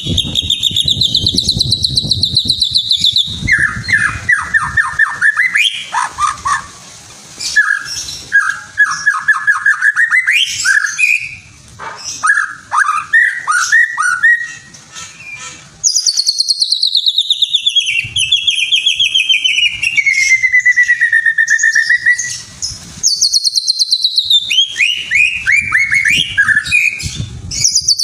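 Songbird singing fast, varied phrases of rapid repeated whistled notes and trills, including a long falling trill in the middle, with short pauses between phrases. It is lure song (pancingan) for provoking caged songbirds to sing.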